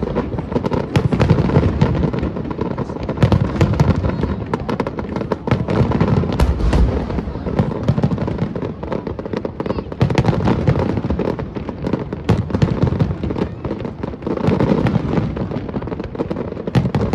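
Aerial fireworks shells bursting in a rapid, continuous barrage: deep booms overlapping with sharp cracks and crackling.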